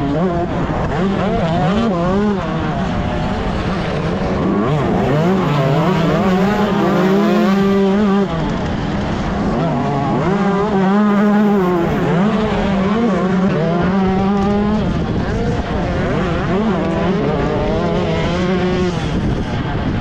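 A 125cc two-stroke motocross bike racing, its engine revving up and falling back over and over as the throttle opens and closes through the track's turns and jumps.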